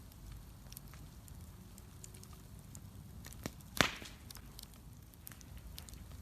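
Bonfire crackling, with scattered small pops and one loud, sharp pop about four seconds in, over a low steady rumble.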